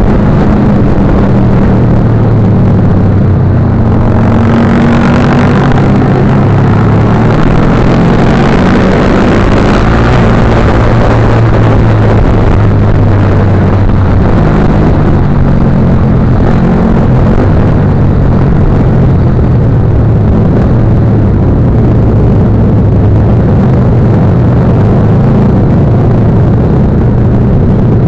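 Motorcycle engine running steadily and loudly, its pitch drifting up and down, over a constant rushing noise.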